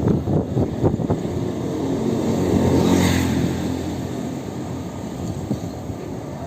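A road vehicle passes by, swelling to its loudest about three seconds in and then fading, with a few knocks in the first second.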